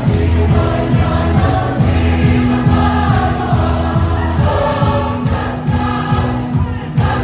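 A choir of many voices singing with amplified band accompaniment: a steady beat and bass line under the sung melody.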